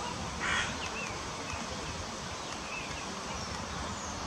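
Birds calling outdoors: one short, harsh call about half a second in, then a few faint high chirps, over a steady low rumble.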